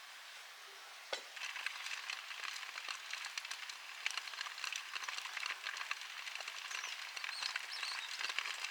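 Food sizzling and crackling in a small frying pan over a campfire. It starts about a second in, just after a sharp clack, and goes on steadily.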